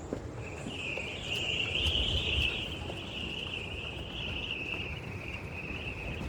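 An insect's steady high buzzing trill that starts about half a second in and runs on for about six seconds, over a low outdoor rumble.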